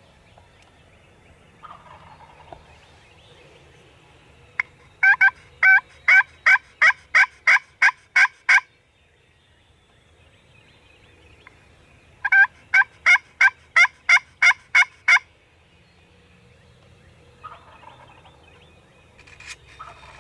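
Hen turkey yelps on a turkey call: two loud series of about a dozen evenly spaced yelps each, roughly three a second, with a short pause between them. Between the series, faint calls that fit distant gobbling can be heard.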